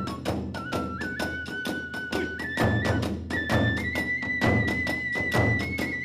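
Hiroshima kagura hayashi music: a bamboo flute holds and steps between high notes over quick, steady drum beats and clashing hand cymbals.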